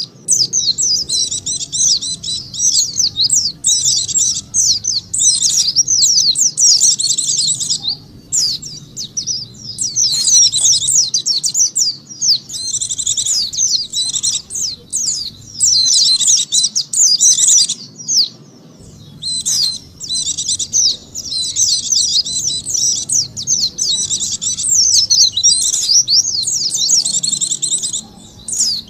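White-eye (pleci) song: a rapid, high, twittering warble in long phrases broken by brief pauses, played as a lure call to attract white-eyes.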